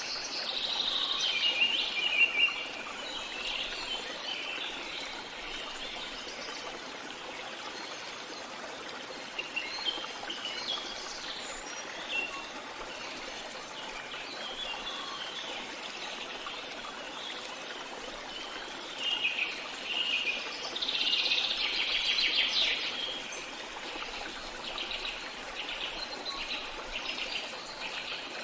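A stream trickling steadily under a dawn-chorus-like mix of birds singing and chirping, the birdsong loudest in the first few seconds and again about two-thirds of the way in, with a fast-pulsed trill near the end.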